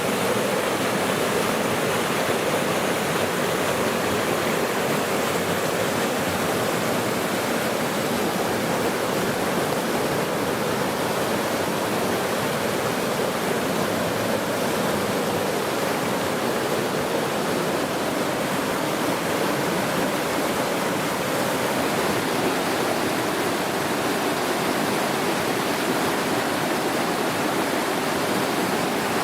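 River water rushing steadily, an even, unbroken rush.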